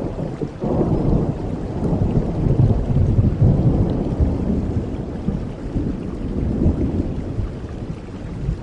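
A roll of thunder rumbling over steady rain. It builds about half a second in, is loudest around the middle and fades away toward the end.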